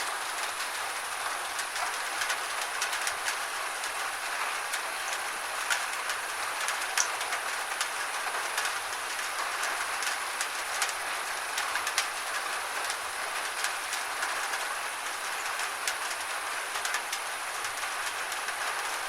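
Gentle rain falling steadily, with many scattered sharp taps of single drops landing close by.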